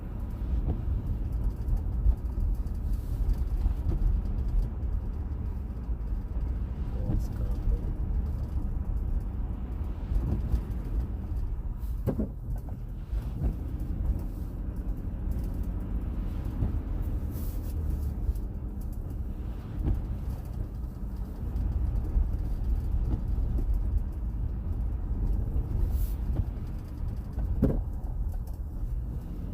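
Steady low rumble of a car driving, road and engine noise, with a few faint clicks.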